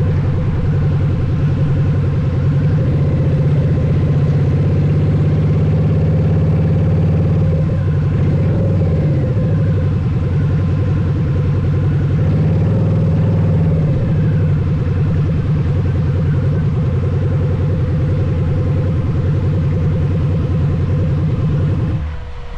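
Harley-Davidson V-Rod Night Rod Special's liquid-cooled V-twin running through its exhaust at a steady idle, with a couple of slight rises and falls in pitch. It cuts off shortly before the end.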